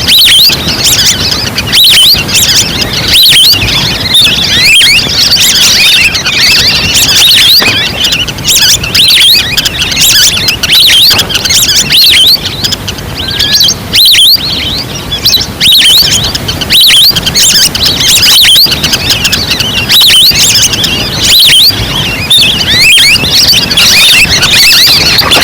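Dense chorus of many overlapping short, high whistling calls from a flock of wild ducks, played loud as a hunting lure call to draw waterfowl in.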